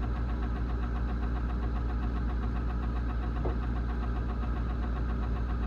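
Steady low hum of an idling motor, with a fine, even pulsing.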